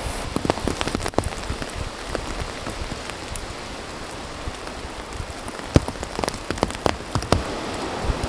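Steady rain with heavier drops tapping irregularly, in clusters about a second in and again from about six to seven seconds in.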